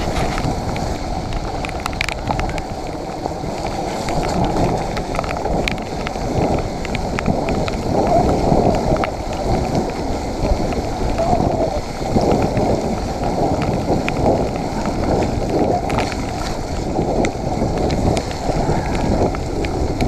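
Mountain bike being ridden: a steady, rough rumble of wind buffeting the on-board camera's microphone, mixed with tyre noise, and scattered sharp clicks and knocks from the bike over rough, wet ground.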